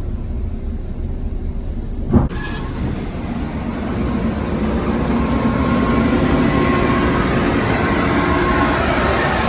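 A train approaching, its rumble growing steadily louder from about three seconds in. A single sharp knock comes about two seconds in.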